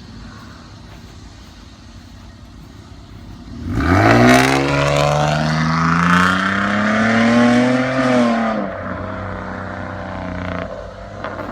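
2012 Nissan Maxima's 3.5-litre V6, straight-piped with the resonator and muffler deleted, running quietly. About four seconds in it opens up loudly, and the exhaust note climbs steadily for about four seconds as the car accelerates. It then drops back to a lower, steadier drone.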